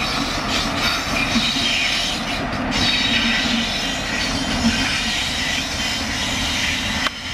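A train passing close by, hauled by an electric locomotive on test: a steady rumble of wheels on rail, with a continuous high-pitched wheel squeal over it.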